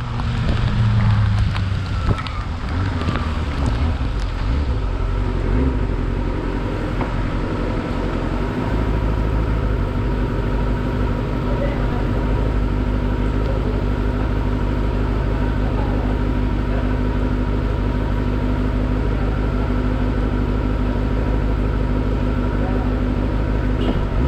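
Kawasaki ZX-25R's 250 cc inline-four engine running at a steady cruise, with wind and wet-road noise over the camera's microphone. The engine note is uneven for the first several seconds, then holds steady.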